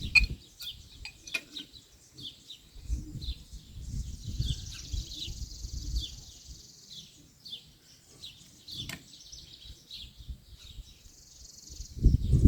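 Small birds chirping outdoors, many short high chirps one after another, with low rumbles now and then and a few light clicks.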